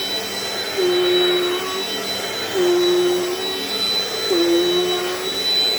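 Dirt Devil Dynamite Plus vacuum cleaner running, with a steady high motor whine. Its sound swells in a repeating cycle, with a lower note coming in about every two seconds.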